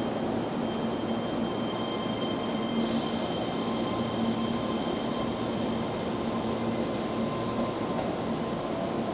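Keihan 13000 series electric commuter train running slowly into the platform as it arrives, with steady whining tones over the rumble of the cars. A sudden hiss starts about three seconds in and fades.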